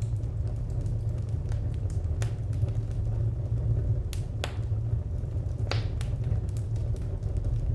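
Wood fire crackling: scattered sharp pops and snaps over a steady low rumble, with two louder pops about four and six seconds in.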